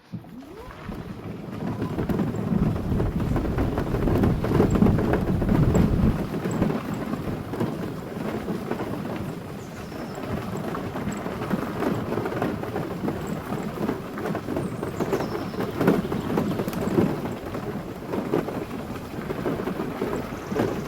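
Car driving along a forest gravel road: steady tyre and road noise with a rumble and scattered crackling from the gravel. It swells up over the first couple of seconds and is loudest in the first third.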